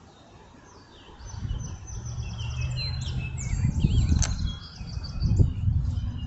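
A large flock of small birds chirping and calling over one another, beginning about a second in, with a low rumble underneath.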